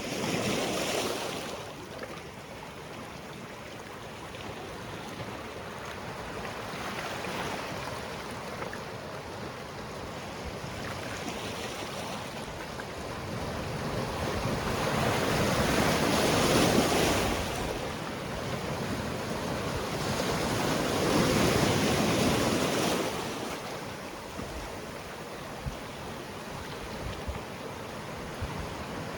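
Sea waves breaking on a rocky shore, a continuous wash of surf that swells into louder breakers three times: just after the start, and twice in the second half.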